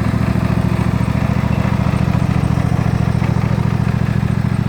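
John Deere tractor's engine running steadily at an even speed, with a rapid regular pulse.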